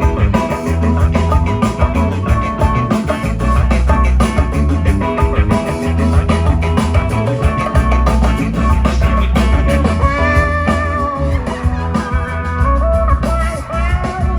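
Rock band playing live with electric guitar, bass and drums over a strong repeating bass line. A wavering lead line with bending notes comes in about ten seconds in.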